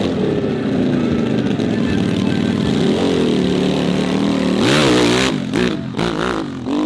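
Racing motorcycle engine at high revs. Its pitch holds and dips slightly, then rises and falls with the throttle, with a louder surge about five seconds in.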